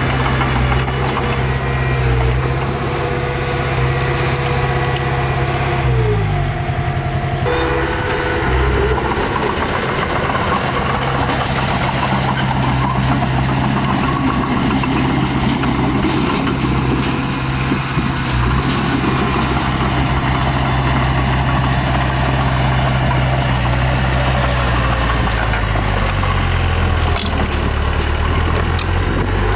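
Heavy earth-moving machine's engine running steadily under work. Its pitch drops about six seconds in and shifts again near the end.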